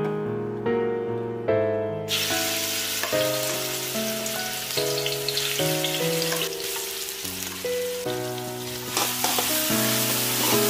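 Coarsely blended onion and garlic dropping into hot oil in an aluminium wok about two seconds in, then sizzling steadily as it fries, stirred with a spatula near the end. Piano music plays throughout.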